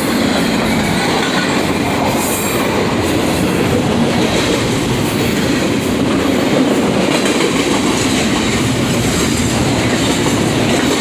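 A train passing close by: a loud, steady noise of its steel wheels running on the rails.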